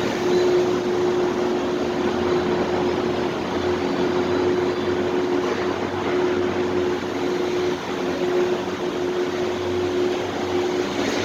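Steady ambient noise of a supermarket parking lot: an even hiss with a constant mid-pitched hum.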